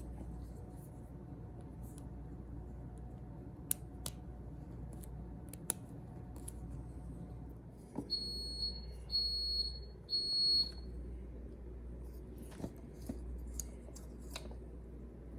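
Three high electronic beeps about a second apart, each lasting about half a second, a little past the middle, over a steady low hum and scattered light clicks.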